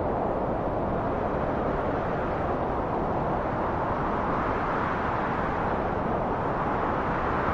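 Steady rushing wind, an even noise that brightens a little near the end.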